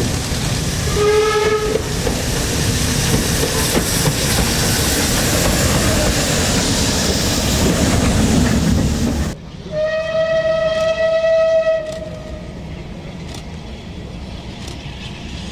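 Steam locomotive running past with loud, rushing noise and a short whistle blast about a second in. After a sudden change, a clearer steam whistle sounds for about two and a half seconds, followed by quieter sound with faint clicks.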